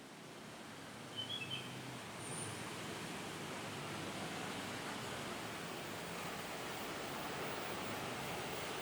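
Distant rumble of an approaching train building slowly and evenly, with a few short bird chirps about a second in.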